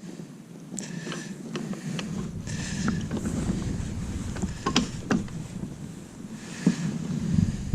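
Handling noises aboard a fishing kayak: a few sharp knocks and clicks over a steady low rumble and wind on the microphone.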